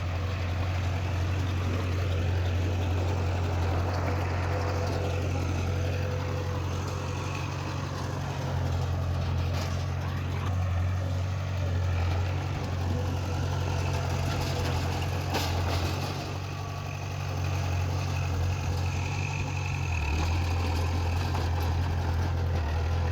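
Diesel engine of heavy earthmoving machinery running steadily with a low hum, with a couple of brief sharp knocks partway through.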